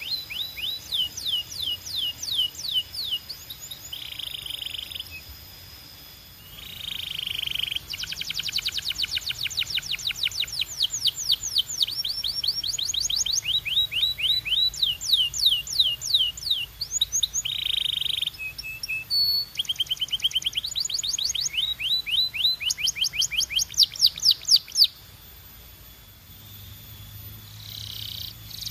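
Belgian canary singing: long trills of rapid, repeated falling notes, changing speed and pitch from one run to the next and broken by short buzzy rolls. The song stops briefly near the end, then starts again.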